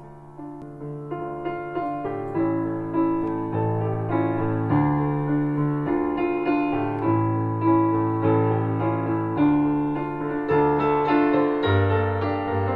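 Solo piano music playing slow, gentle chords and notes, about two notes a second, growing louder over the first few seconds.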